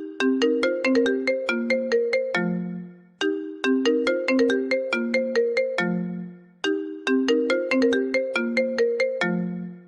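iPhone ringtone: a short melody of quick, bright struck notes that ends each time on a longer low note fading out, looping about every three seconds.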